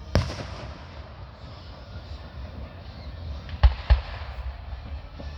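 Aerial fireworks bursting: a sharp bang just after the start with crackling trailing off for a couple of seconds, then two loud bangs in quick succession.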